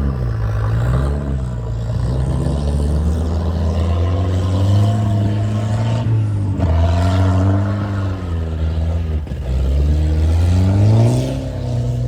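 Volvo 740 Turbo's turbocharged four-cylinder engine driven hard, its revs rising and falling with gear changes and sharp drops in pitch about six and a half and nine seconds in.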